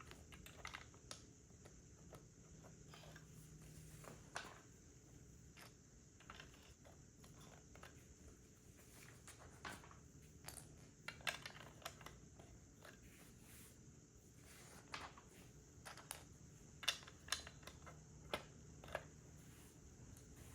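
Plastic Lego pieces being handled and snapped together: faint, irregular light clicks and taps, with a busier run of clicks around the middle and another near the end.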